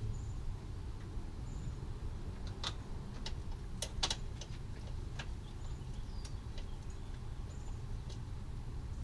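A string of sharp small metallic clicks and taps, bunched about three to five seconds in, as a hose clamp is fitted onto a radiator hose, over a low steady background rumble.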